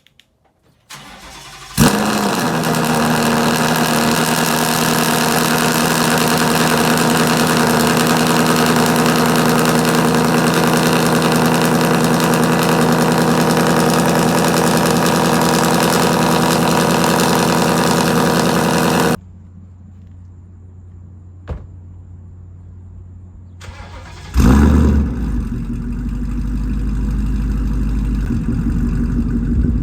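Ford Mustang GT 5.0 V8 through catless Stainless Power long tube headers and a Ford Performance Borla catback, started with a sharp bark about two seconds in, then running loud and steady. It cuts off suddenly. A few seconds later it starts again with another bark and runs on, with a rev near the end.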